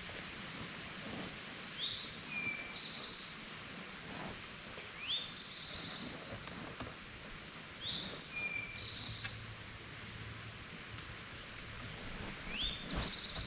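A songbird singing the same short phrase over and over, roughly every three seconds: a quick rising note followed by a brief trill, over a steady outdoor hiss. A soft low thump comes near the end.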